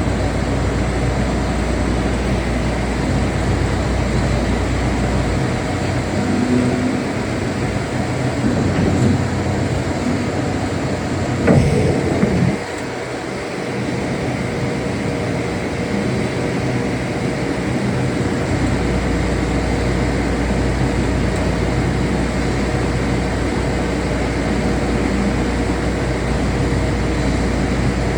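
Machinery running steadily with a constant hum. Its deep rumble drops away for several seconds in the middle, and about twelve seconds in there is a brief swoop down and back up in pitch with a louder moment.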